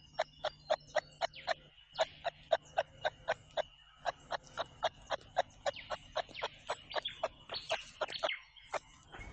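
Kangaroo clucking: a rapid run of short clicks, about four a second, broken by a couple of brief pauses. A faint steady high tone runs beneath.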